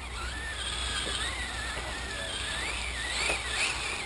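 Electric motor of an HPI Savage Flux RC monster truck whining, the pitch wavering up and down as the throttle is worked, over a steady noisy bed.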